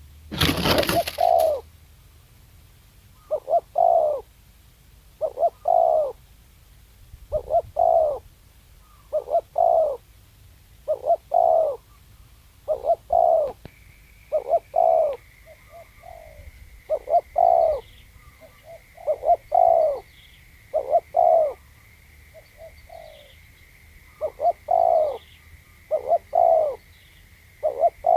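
Spotted dove cooing over and over, its phrase of a few coos repeating about every one and a half to two seconds. A brief loud noise burst comes about half a second in, and from about halfway a faint steady high whine and faint small-bird chirps sit behind the coos.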